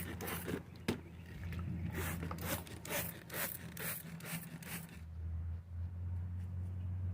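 Hand-held water sprayer squirting water onto potted herb seedlings in a quick run of short hissing bursts, a few a second, stopping about five seconds in. A steady low hum runs underneath.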